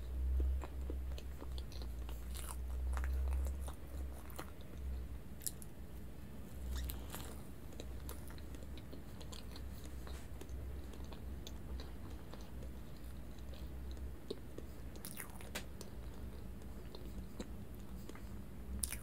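Chewing a bite of cream-topped sponge cake, with many small mouth clicks scattered throughout. The chewing is heaviest in the first four seconds and again about seven seconds in.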